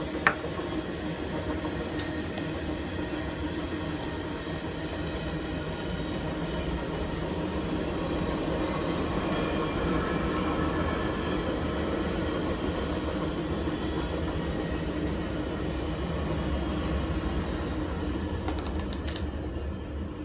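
A steady mechanical rumble with a low hum, with a sharp click just after the start and a few faint ticks later on.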